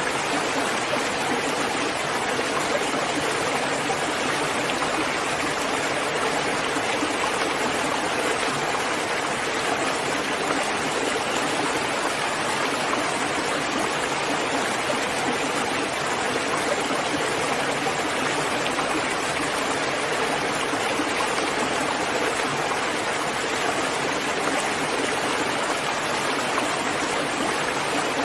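Steady rain falling at night, an even unbroken hiss of rainfall with no separate drops or thunder standing out.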